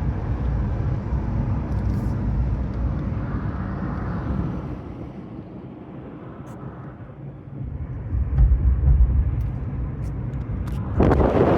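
A car being driven, heard as a low road and engine rumble that eases off in the middle and builds again. Near the end a sudden rush of wind noise on the microphone comes in.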